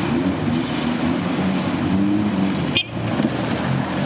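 Off-road vehicle engine running and revving, its pitch rising and falling, over a steady rushing noise. The sound breaks off sharply for a moment about three seconds in.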